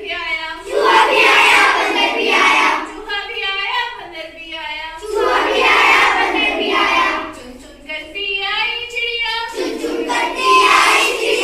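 Children singing a Hindi nursery rhyme. Passages with a single clear voice alternate every few seconds with fuller passages sung by many voices together.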